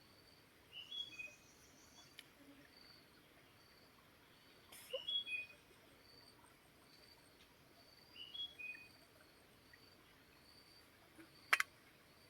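Songbirds singing short phrases three times over a faint steady stream hiss, while a high chirp repeats evenly, a little faster than once a second. A single sharp click near the end is the loudest sound.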